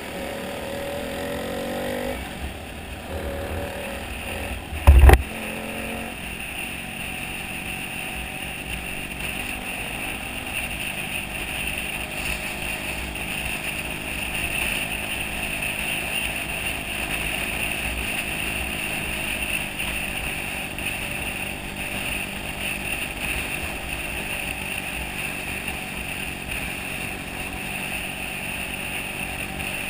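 Small motorcycle engine running steadily at cruising speed, with wind and road noise. A single loud, sharp thump comes about five seconds in.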